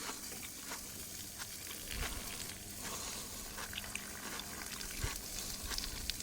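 Food sizzling as it fries in a pan, a steady hiss with scattered clicks of a utensil stirring it.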